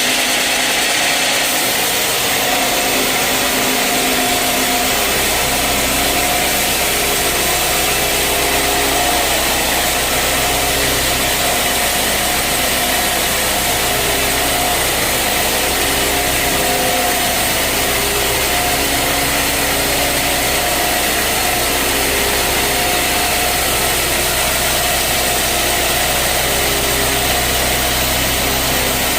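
Sawmill machinery running steadily, a motor drone with a few held tones over a constant noise; a higher hiss fades about a second and a half in and a deep low drone comes in about four seconds later.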